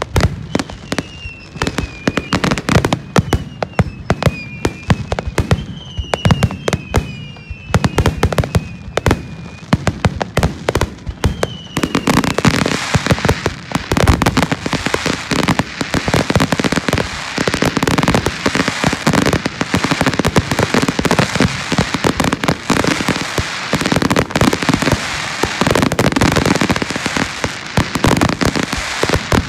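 Fireworks display: rapid cracks and bangs of bursting shells, with several whistles gliding down in pitch in the first part. About halfway through it thickens into a dense, continuous crackling barrage.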